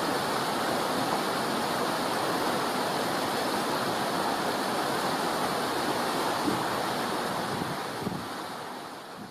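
Steady rushing noise with no rhythm or pitch, fading out over the last second or so.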